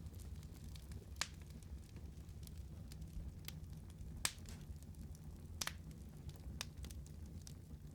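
Wood fire crackling: sharp pops every second or so, the loudest about four seconds in, over a steady low rumble.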